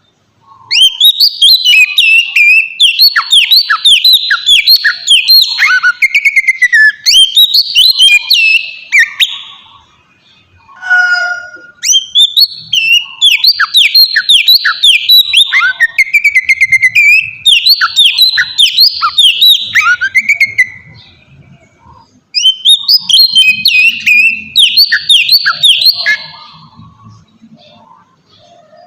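Oriental magpie-robin singing loud, fast phrases of repeated down-slurred whistled notes, in three long bursts separated by short pauses.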